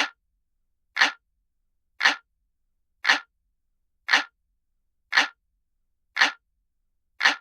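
Looped clock-ticking sound effect: single, identical sharp ticks about once a second, with dead silence between them.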